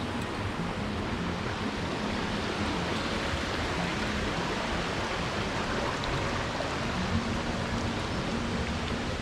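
Steady rushing of a creek's water tumbling over rock, an even hiss with no breaks.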